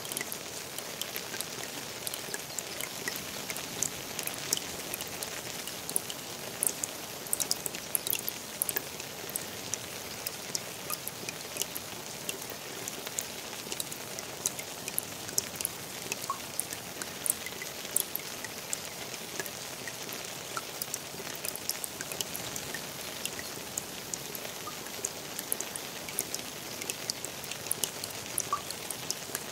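Steady rain falling on a garden pond: an even hiss with many sharp, scattered ticks of single drops hitting the water.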